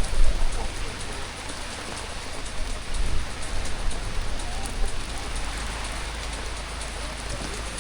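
Heavy rain pouring down: a dense, steady hiss of countless drops, a little louder in the first second. A low, gusty rumble of wind runs underneath.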